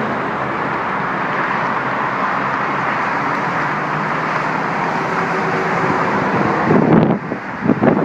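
Steady road traffic noise, with a faint engine hum in it. Two short, louder bumps come near the end.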